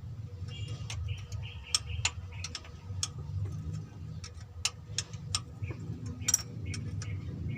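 Hand tools and metal engine parts clicking and knocking in an irregular string of sharp ticks, over a steady low rumble.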